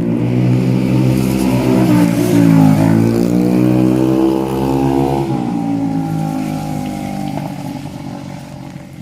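A motor vehicle's engine passing close by: it runs loud with its pitch shifting up and down over the first half, then fades away over the last few seconds.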